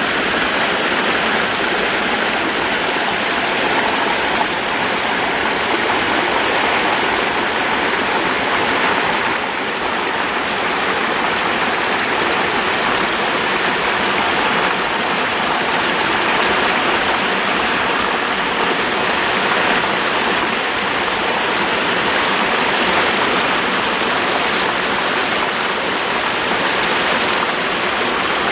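A creek running over rocks: a steady, loud rush of flowing water.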